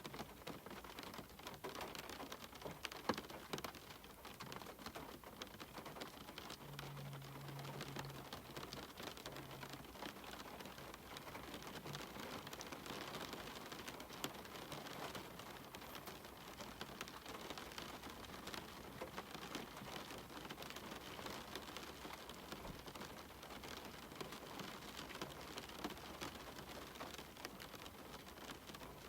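Steady rain falling on a cabin window, a continuous hiss dotted with the close ticks of individual drops.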